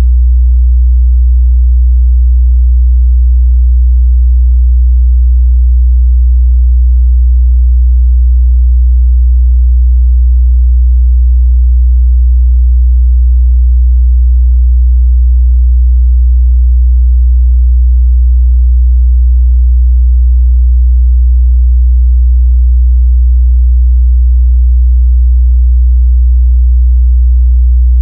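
Steady 61 Hz sine-wave test tone: one unchanging deep bass hum, loud.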